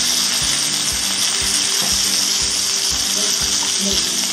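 Duck breasts searing in a frying pan: a steady sizzling hiss, over background music with a steady beat.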